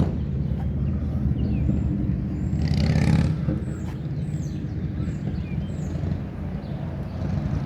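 Steady low rumble of a motor vehicle running, with a brief hissing swell about three seconds in.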